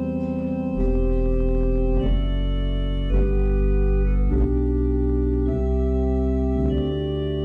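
Organ playing slow held chords that change about once a second, over deep sustained bass notes.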